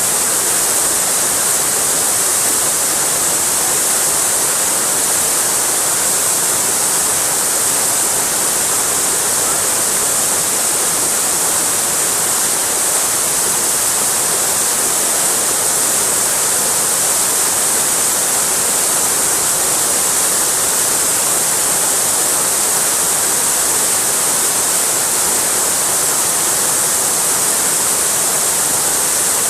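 Waterfall rushing steadily: an even, bright hiss of falling water.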